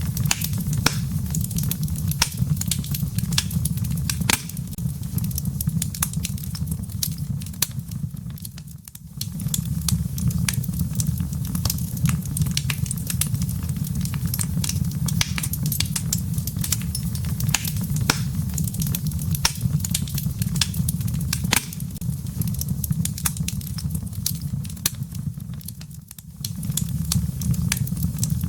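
Wood fire in a fireplace crackling: frequent sharp snaps and pops over a steady low rumble of the flames, which dips briefly twice.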